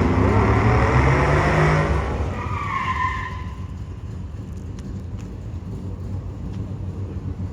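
A car's engine running loud under hard acceleration, then fading away after about two seconds, with a brief tire squeal near three seconds in.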